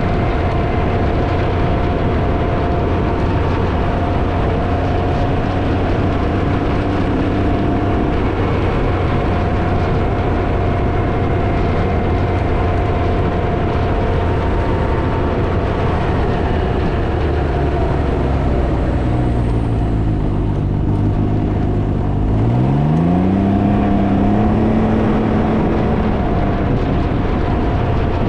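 Can-Am Ryker three-wheeler's engine running on the move under heavy wind noise on the microphone. About 22 seconds in, the engine pitch rises sharply and it gets louder as the rider accelerates, then holds at the higher note.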